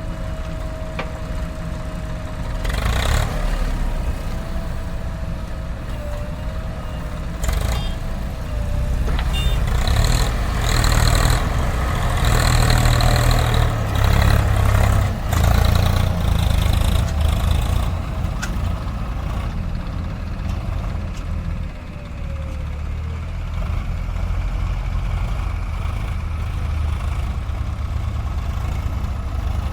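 JCB 3DX backhoe loader's diesel engine running, revving harder under the load of digging and loading mud for several seconds midway, with a few knocks.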